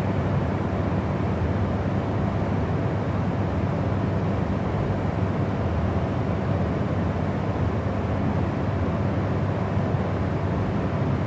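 Steady, unvarying white noise for sleep, weighted toward a deep low rumble, with no change or interruption.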